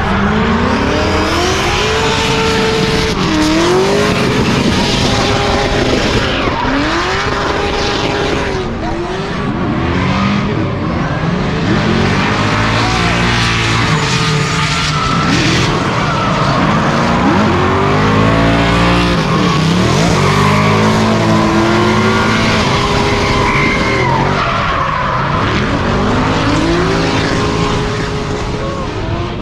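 Drift cars' engines revving hard, pitch climbing, holding and dropping again every few seconds as the drivers work the throttle, over a steady hiss of squealing, sliding tyres.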